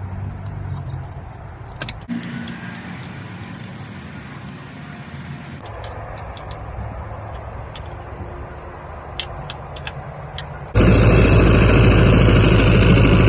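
An engine running steadily across a few short edited clips, with scattered small clicks; about three-quarters of the way through it cuts to a much louder, fuller engine-and-noise sound.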